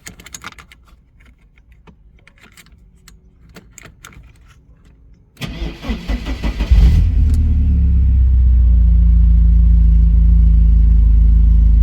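A few light clicks, then a 1988 Porsche 944's four-cylinder engine is cranked by the starter for about a second and a half, catches with a quick rev and settles into a steady idle. It is a warm restart, and the engine starts readily.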